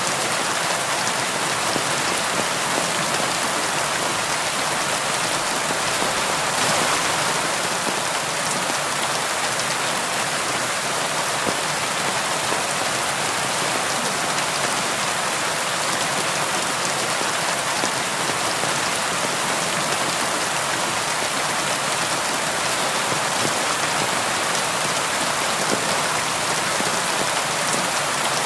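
Steady rain on a window: an even hiss of rainfall with faint scattered drop ticks, unchanging throughout.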